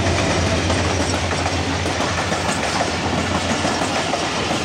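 A diesel locomotive passing close by at speed, its low engine drone dropping away within the first couple of seconds as the passenger coaches follow. The coaches bring a steady rush of wheel and track noise.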